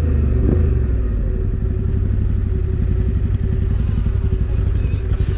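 Motorcycle engine running steadily with an even low rumble.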